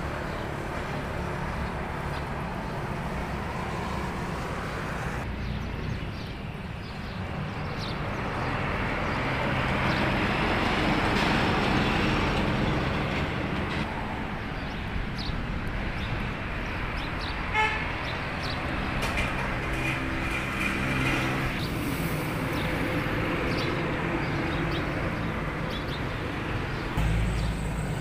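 Motor vehicle noise: engines running, with horn toots.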